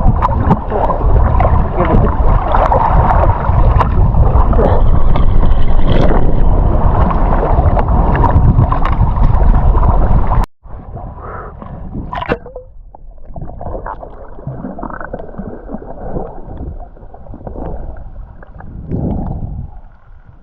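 Open-sea wind and boat noise on the microphone for about ten seconds, then an abrupt cut to muffled underwater sound with gurgling, heard through an underwater camera.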